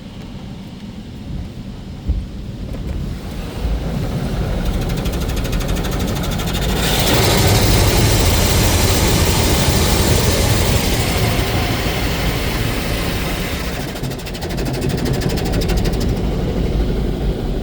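Belanger Kondor KL2 touchless car wash machine running over the car, heard from inside the car: a low rumble throughout, with a dense spray hiss that builds about seven seconds in and eases off again a few seconds later. A single knock sounds about two seconds in.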